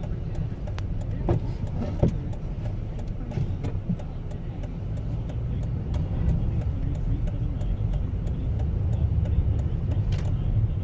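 Car driving at steady speed: a constant low rumble of engine and tyre noise, with scattered light clicks and knocks.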